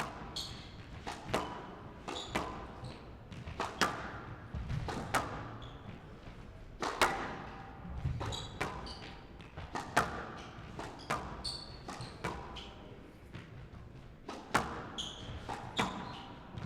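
Squash rally: sharp cracks of racket hitting ball and ball striking the walls, about one every second, with short shoe squeaks on the court floor in between, echoing in the hall.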